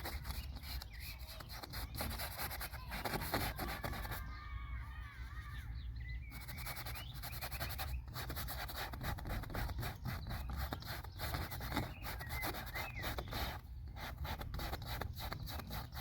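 Paintbrush rubbing and scraping in quick, repeated strokes on the painting surface, over a low steady outdoor rumble.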